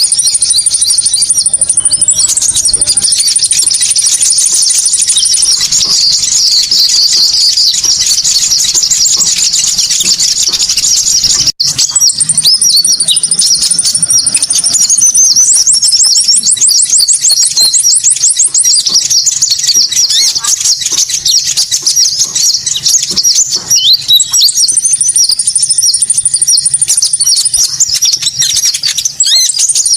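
Loud, continuous songbird song played as a lure for konin birds: a fast, high, chattering warble with thin, rapid high trills laid over it at times. It breaks off for an instant about twelve seconds in.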